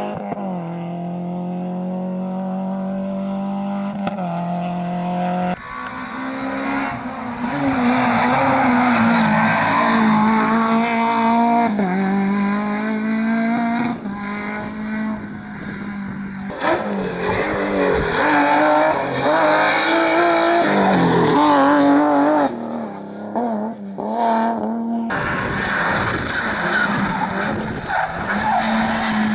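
Rally cars at racing speed: engines revving hard, rising and falling through the gears, with tyre squeal and skidding in the corners. The sound changes abruptly several times, one passing car cut to the next.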